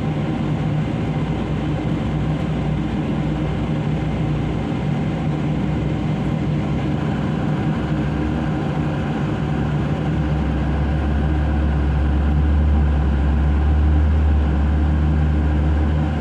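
Heavy diesel engines of a large excavator and a dump truck running steadily at a loading face. A deeper, louder engine rumble builds from about ten seconds in.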